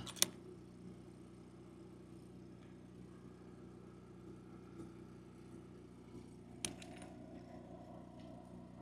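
A few light metallic clinks as steel clamps and gate pickets are handled: one sharp click just after the start and another small clatter about two-thirds of the way through, over a faint steady low hum.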